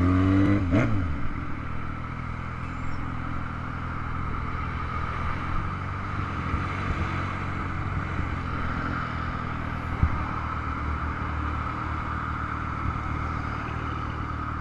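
Motorcycle engine with its revs dropping about a second in, then running steadily under a constant hiss of road and wind noise. A single sharp knock about ten seconds in.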